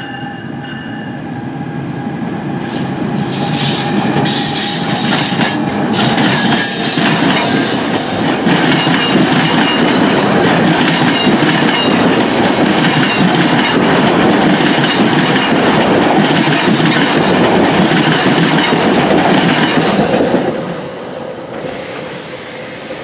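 Passenger train passing close by, its wheels rumbling and clattering over the rails. The noise builds over the first few seconds, holds steady, and drops away sharply about twenty seconds in as the last car goes by.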